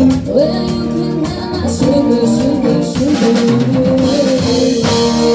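Live band playing a soul-rock song with drums and a sung line that slides in pitch; about five seconds in the band moves to a held chord.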